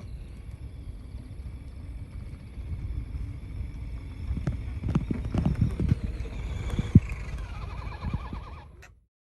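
Redcat Gen7 electric RC rock crawler working through snow: low rumbling with a thin steady motor whine, then a cluster of thumps and crunches from about four and a half seconds in and a sharp knock about seven seconds in. The sound cuts off shortly before the end.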